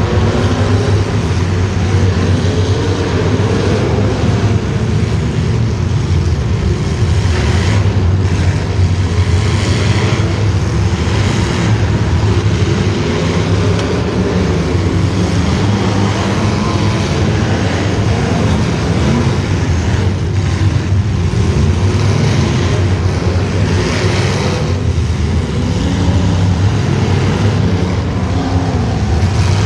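Racing vehicle's engine running without a break, its pitch wavering up and down as the revs change.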